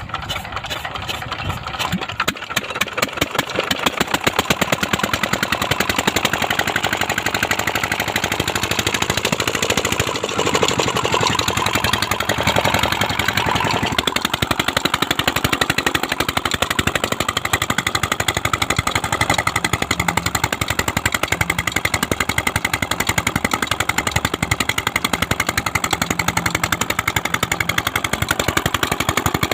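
Petter diesel tube-well engine catching and picking up speed, its firing beats quickening and growing louder over the first few seconds, then running at a steady, even beat.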